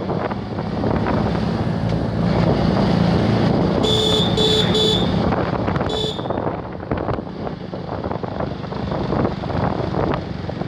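Vehicle horn beeping three times in quick succession, then once more about two seconds later, over a steady low rumble of road traffic.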